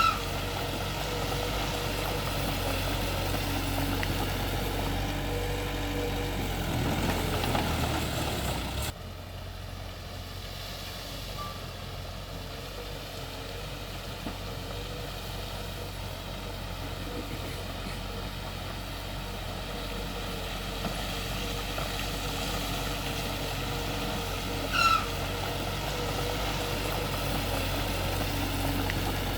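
Heavy diesel engine of earthmoving machinery running steadily, with a sudden drop in level about nine seconds in. Two short, high chirps that slide down in pitch, one at the start and one near the end.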